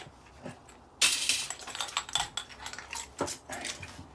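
Small metal parts and screws of a decking light clinking and clattering as it is taken apart by hand: a sudden clatter about a second in, then a run of light clicks and ticks.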